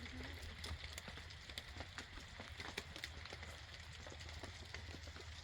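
Light rain, with scattered drops ticking irregularly on nearby surfaces over a steady low hum.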